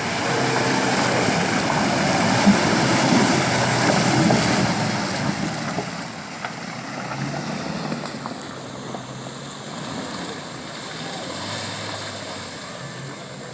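A 4WD pickup truck's engine running hard under a heavy rushing noise of tyres and spray, loudest over the first few seconds and then easing off.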